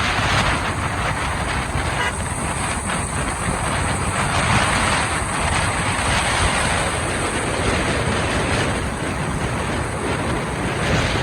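Steady noise of a motorcycle ride, with the engine running and a loud rush of wind and road noise.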